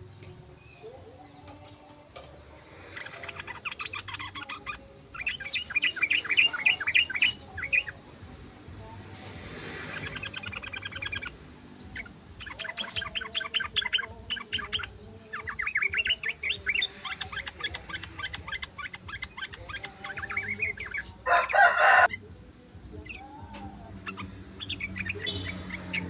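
Yellow-vented bulbuls (trucukan) singing in fast chattering phrases of quick notes, in several bouts. A louder, harsher burst comes a little past two-thirds of the way through.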